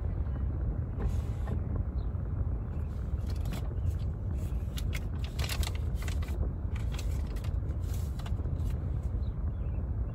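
Car idling, a steady low rumble heard inside the cabin, with scattered light clicks and rustles through the middle seconds.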